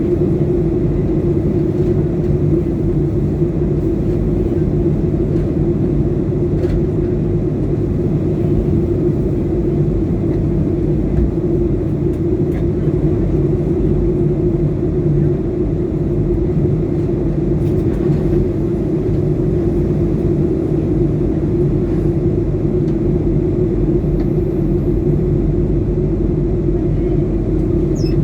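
Steady drone of a passenger jet's engines and cabin air heard from inside the airliner, an even hum with no change in pitch or level.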